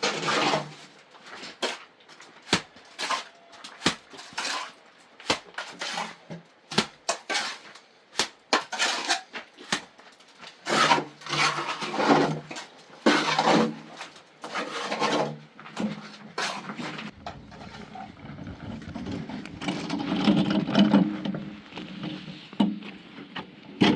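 A run of knocks, clicks and scraping from objects being handled, with longer rubbing stretches midway, growing denser in the last several seconds.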